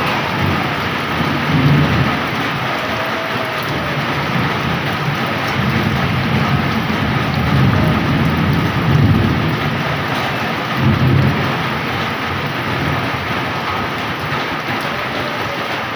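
Heavy rain pouring steadily, with low rolls of thunder swelling up several times, around two seconds in, through the middle, and again about two-thirds of the way through.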